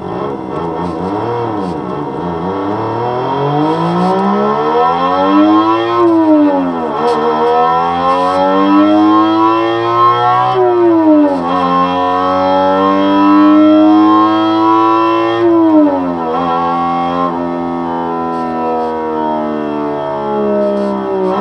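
Homemade electronic imitation of a straight-six (1JZ-GTE) exhaust note, accelerating hard at high revs. The pitch climbs three times and drops sharply each time, about 6, 11 and 16 seconds in, like upshifts. After the last drop it holds and slowly falls.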